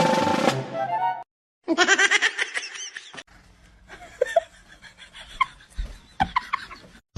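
Instrumental music cuts off about a second in. After a short gap comes a burst of laughter lasting over a second, then quieter scattered short, high chirping sounds.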